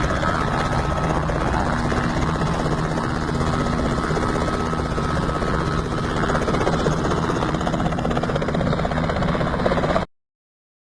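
Helicopter running close by, its rotor blades chopping in a fast, steady rhythm; the sound cuts off abruptly near the end.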